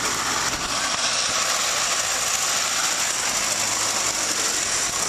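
Tractor running steadily with a dense mechanical clatter and rattle, hauling a dump trailer loaded with gravel.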